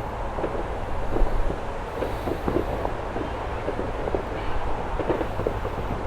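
Wind rumbling on the microphone, with scattered faint pops and crackles throughout.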